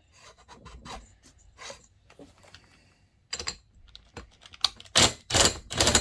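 Hands working on chainsaw parts: light clicks and rubbing of metal parts, then from about five seconds in a run of loud rasping strokes, roughly two a second.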